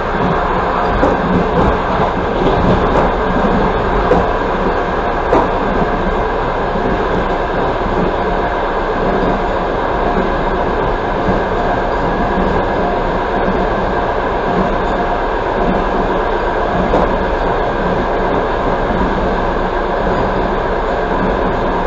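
Passenger train running at speed: the steady rumble and hiss of wheels on rail, heard from inside a coach. A few sharp clicks come through in the first several seconds.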